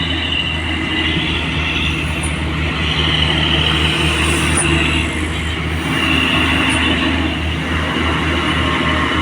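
Mitsubishi Fuso heavy truck's diesel engine running steadily as a low drone, with a higher whine above it that comes and goes every second or two.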